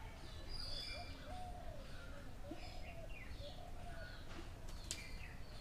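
Birds calling in the background: scattered high chirps over a lower call that repeats about once a second. There is a single sharp click near the end.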